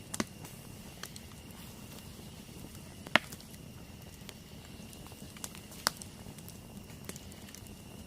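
Wood campfire crackling: sharp pops of burning wood, the loudest about three seconds in and another near six seconds, among lighter ticks.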